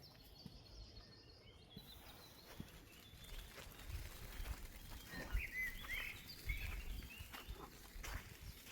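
Forest ambience: small birds chirping in short phrases, busiest about five seconds in, over scattered soft rustling steps and crackles on the forest floor.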